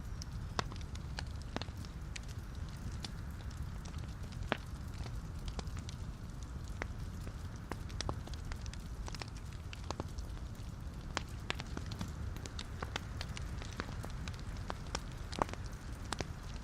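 Wood logs burning in a fireplace: a low steady rumble of flame under frequent irregular crackles and pops, a few sharper pops standing out.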